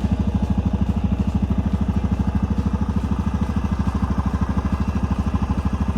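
Engine of a snow-plowing vehicle running steadily with a fast, even pulse.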